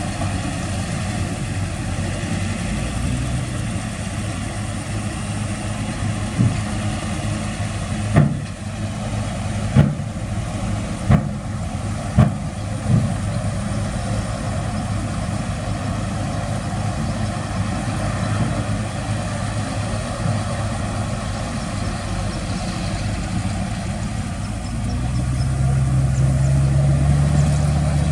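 Heavy diesel engine of earthmoving equipment running steadily, with a series of about six sharp clanks in the middle; near the end the engine rises in pitch and gets louder as it is revved.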